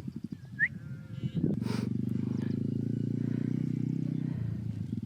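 Motorcycle engine ticking over at idle with rapid, even pulses. About a second and a half in, after a short hiss, it is revved and held at a steady higher speed, then drops back to idle near the end.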